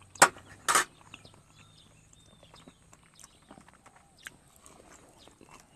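A person eating: two sharp puffs of breath through pursed lips in the first second, then quiet chewing with small wet clicks and lip smacks.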